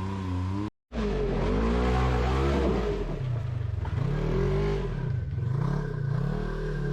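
Off-road vehicle's engine revving up and down, its pitch rising and falling several times; the sound drops out for a moment just under a second in.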